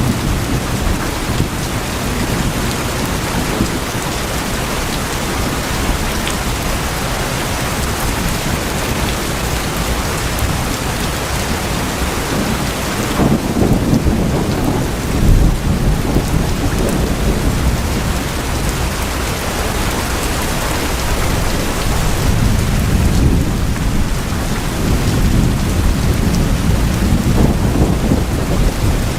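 Steady heavy rain drumming on tin roofs, with low rumbles that swell about halfway through and again near the end, as of thunder.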